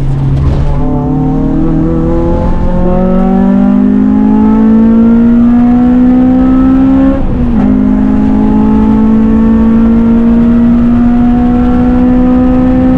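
Car engine accelerating under hard throttle. Its pitch climbs steadily for several seconds, drops briefly at an upshift about seven and a half seconds in, then climbs again.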